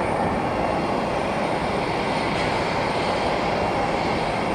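Steady rumble and hiss of jet aircraft engines running at the airport, even in level throughout.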